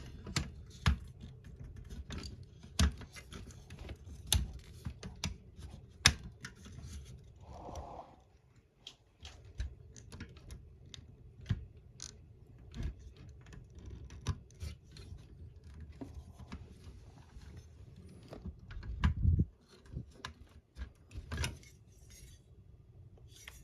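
Hard plastic model-kit parts being handled and pressed together, giving scattered small clicks, taps and scrapes, with a louder knock about nineteen seconds in.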